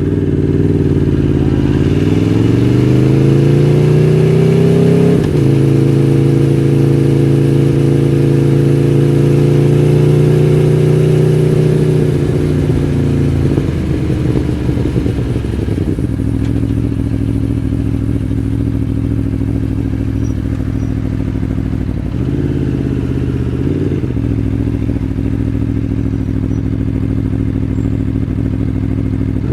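Aprilia Tuono V4 1100 Factory's V4 engine pulling up through the revs, shifting up about five seconds in, and holding speed. About twelve seconds in it rolls off to a low steady run, with a short blip of the throttle later on.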